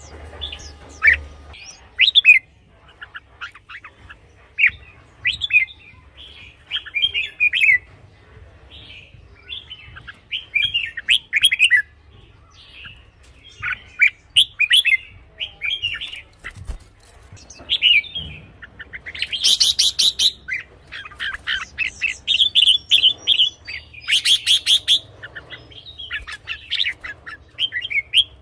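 Red-whiskered bulbul singing short, bright, repeated phrases, with two louder, harsher rattling phrases about two-thirds of the way through and again a few seconds later.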